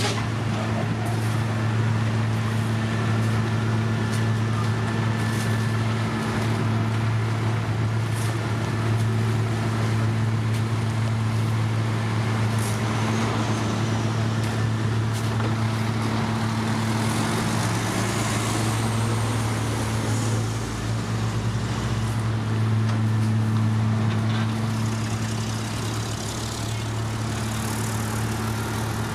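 Heavy road-construction machinery, diesel engine running steadily with a deep, even hum, briefly changing note about two-thirds of the way through.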